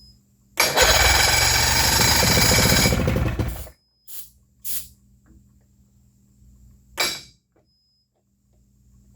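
Outboard motor firing and running hard for about three seconds, then dying, followed by a few brief coughs or bursts. It runs only on the help it was given, as the owner suspects fuel is not getting from the fuel hose to the carburetor.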